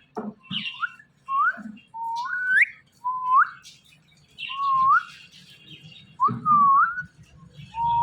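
Ringneck parrot whistling: a series of about seven short clear notes, each held briefly and then sliding upward at the end, about one a second.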